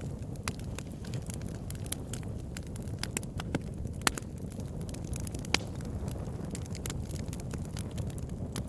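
Campfire burning with a steady low rumble of flames and irregular sharp crackles and pops from the burning wood, a few louder snaps among them.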